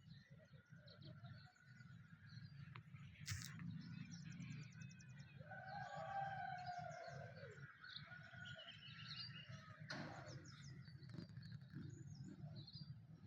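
Several birds chirping and calling faintly, with a quick trill a few seconds in and one lower, drawn-out falling call about halfway through, over a low steady hum.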